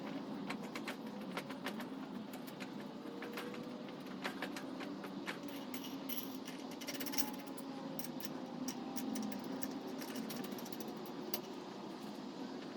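Light metallic clicks and clinks of small metal parts and tools being handled at a workbench, thickest around the middle, over a steady background hum.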